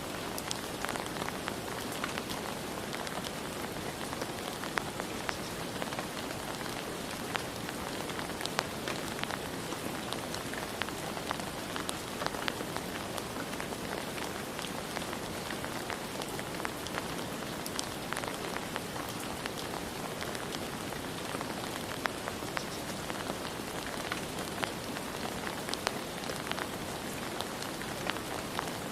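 Steady rain falling on a surface, with a constant hiss and many scattered individual drop taps.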